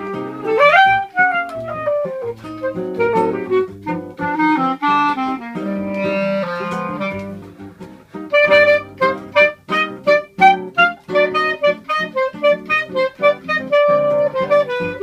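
Clarinet and seven-string acoustic guitar playing choro together: the clarinet carries the melody with a rising slide about half a second in, over the guitar's bass lines. From about halfway through, a run of short, quick notes.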